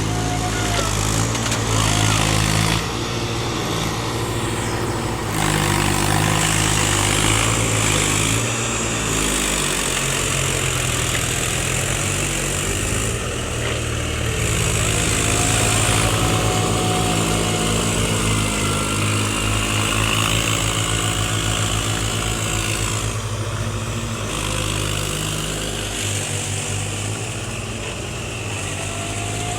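Tractor engines running steadily, their pitch and loudness shifting every few seconds.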